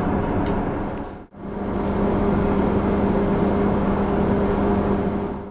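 Steady rumble of a passenger train in motion heard from inside a carriage, with a continuous low hum over it. The sound cuts out briefly about a second in and then resumes unchanged.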